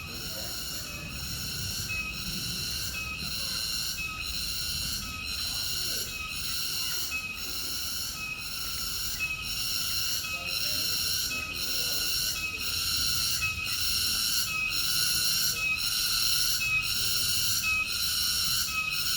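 Cicadas calling in a high, buzzing drone that pulses about once a second, each pulse topped by a brief higher note, slowly growing louder.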